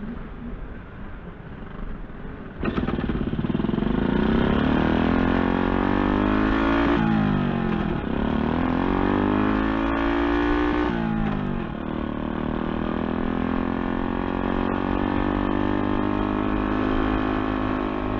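Honda motorcycle engine running on a roller test stand, starting up loud about two and a half seconds in and revving up through the gears. The pitch rises, drops at a gear change about seven seconds in and again about eleven seconds in, then climbs slowly and holds as the rear wheel spins the roller.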